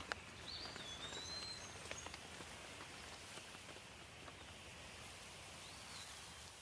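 Steady rain with scattered drop ticks. A bird gives a short whistled call about half a second in and again near the end.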